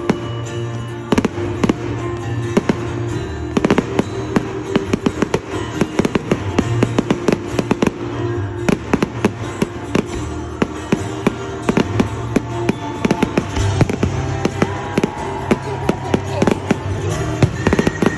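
Fireworks display: a dense run of bangs and crackling reports, several a second, over music with held notes and a bass line.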